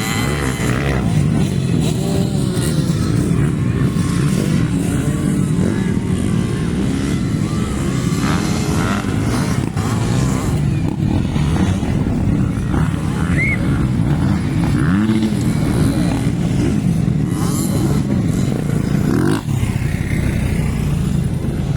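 Several motocross dirt bikes racing, their engines running hard and revving up and down.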